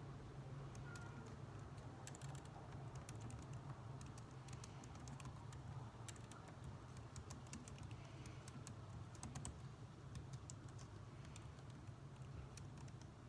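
Computer keyboard typing: irregular runs of light keystrokes, faint, over a steady low background hum.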